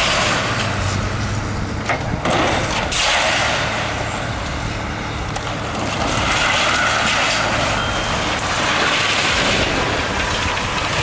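A heavy truck running, with engine and road noise and a few short noisy surges in the first three seconds.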